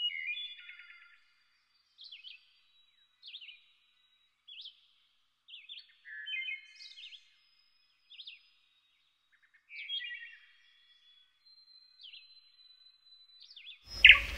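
Birds chirping: a series of short, separate calls, roughly one a second. A brief loud burst of noise comes near the end.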